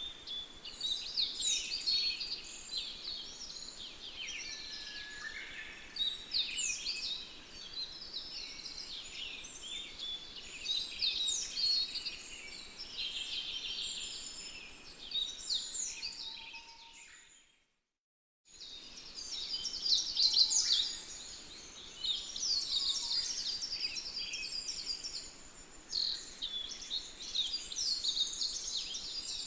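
Many small birds chirping and singing together in a dense, continuous chorus of quick high notes. About seventeen seconds in, the chorus fades to silence for about a second, then comes back.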